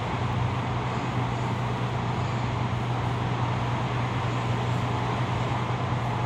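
Toyo Rapid Railway 2000 series train running at speed, heard inside the passenger car: a steady low hum under an even rumble and rush of wheels on rail.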